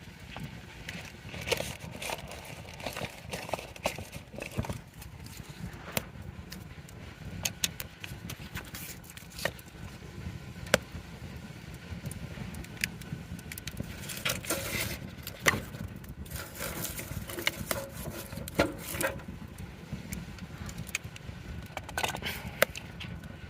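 Wood campfire in a fire stand crackling, with irregular sharp pops and snaps, some much louder than others, over a steady low rumble.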